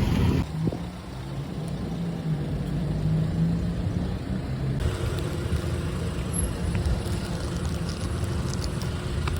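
Car on the move: steady low engine and road rumble. The sound changes abruptly about half a second in and again near five seconds.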